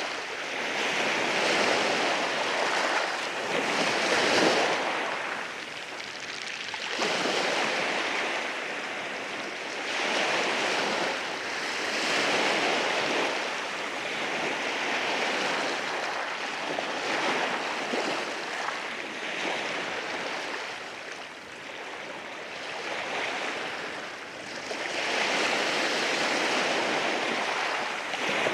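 Sea waves breaking and washing in over rocks on a shoreline, a continuous hiss of surf that swells and ebbs every few seconds, the loudest surge about four seconds in.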